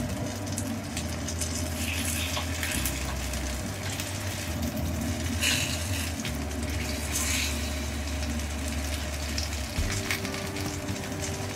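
Floured salmon pieces shallow-frying in oil in a frying pan, sizzling steadily. The spattering flares up a few times as pieces are turned over with cooking chopsticks.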